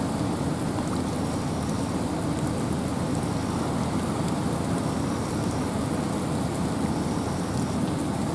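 Steady rain falling through a forest with wind, an even rushing hiss heaviest in the low end, with faint fine drop ticks.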